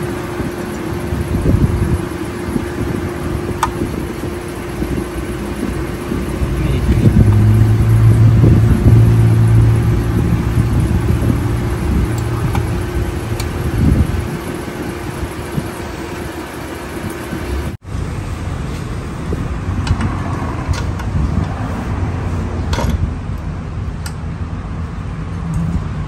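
A steady, low mechanical hum of a vehicle engine running, louder for a few seconds about seven seconds in, with a few light metallic clicks of parts being handled.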